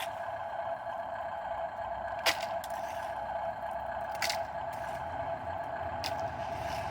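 Dump truck running with a low engine rumble under a steady whine, with a few sharp clicks, the loudest a little over two seconds in and another about four seconds in.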